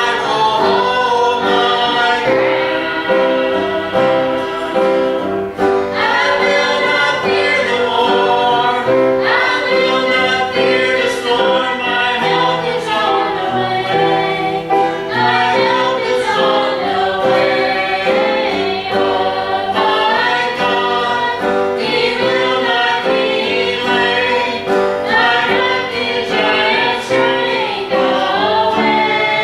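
Gospel song sung by a group of voices, a lead with backing singers, over a piano accompaniment.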